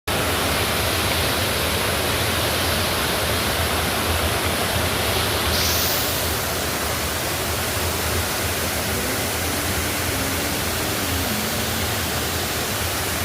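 Steady, loud rush of water, an even noise without rhythm that changes little, its hiss a little softer from about six seconds in.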